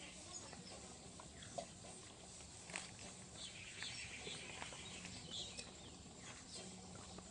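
Faint birds chirping and twittering, with a couple of sharp clicks and a low steady hum underneath.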